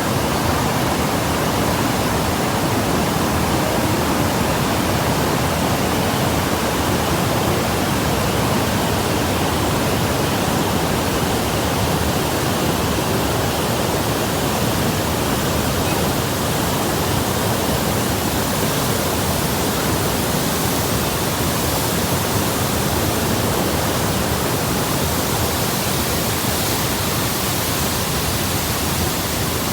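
Steady, loud rush of water, an even roar with no breaks.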